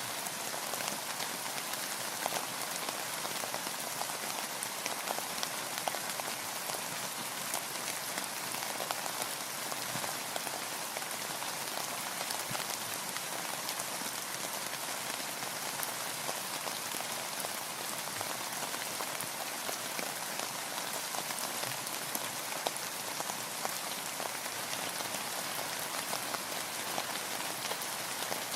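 Steady rain falling: an even hiss of drops dotted with many small, sharp ticks, with no change in strength.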